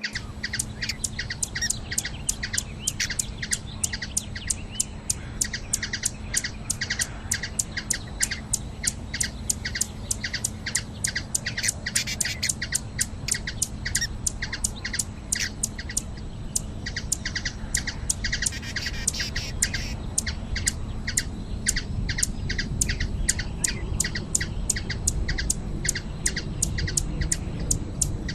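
Hummingbird calling a long run of short, high chips, about three a second, over a steady low rumbling noise.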